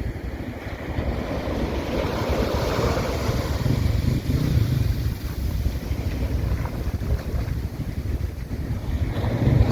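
Wind buffeting the microphone over the wash of breaking surf, a steady rushing noise heavy in the low end that grows louder near the end.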